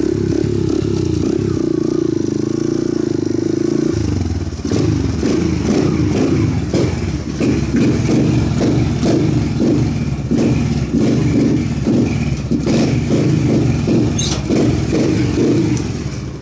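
Single-cylinder motorcycle engine running just after starting: steady for the first few seconds, then uneven and pulsing from about four seconds in, and cut off near the end.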